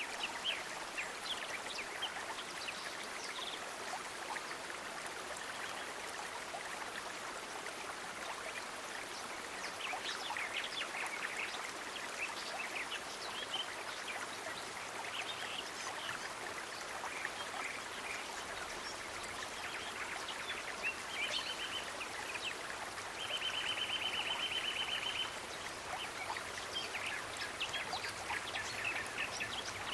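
Nature ambience: a steady rush of running water, with frequent short bird chirps over it. A fast, buzzy pulsed trill comes in twice in the second half, the second time for about two seconds.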